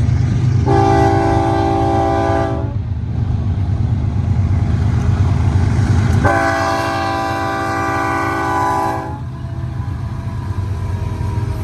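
Diesel locomotive air horn sounding two chord blasts: one of about two seconds, then a longer one of about three seconds starting some four seconds later. Underneath is the steady low rumble of the freight train's diesel locomotives.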